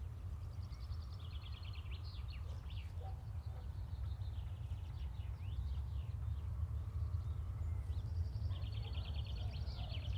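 Small birds chirping, with a rapid trill about a second in and another near the end, over a steady low rumble of background noise.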